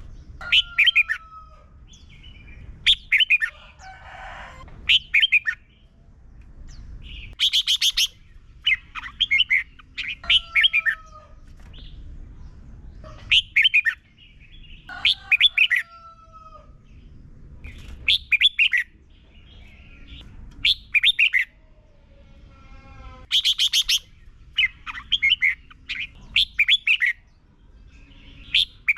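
Red-whiskered bulbul singing short, bright, repeated song phrases every two to three seconds, some ending in a falling whistle, over a faint low rumble.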